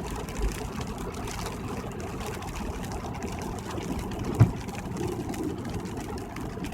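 Car driving on a rain-wet freeway: a steady low rumble of engine and road noise with the hiss of tyres on wet pavement. There is a single short low thump about four and a half seconds in.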